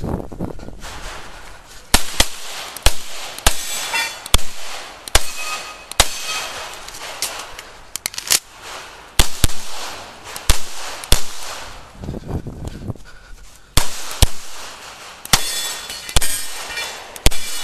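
9mm CZ Shadow 2 pistol firing a string of shots, many in quick pairs, with gaps of a second or more between groups.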